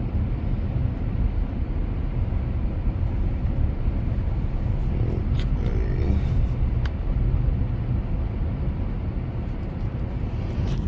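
Car driving on a snow-covered road: a steady low rumble of engine and tyres, with a few faint ticks midway.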